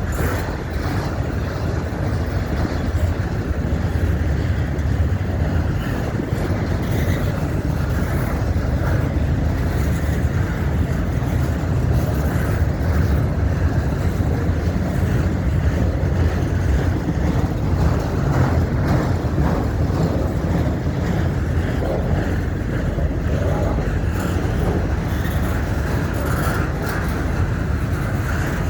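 Freight train rolling past: a steady, loud low rumble of wheels on rails with a faint irregular clatter from the cars.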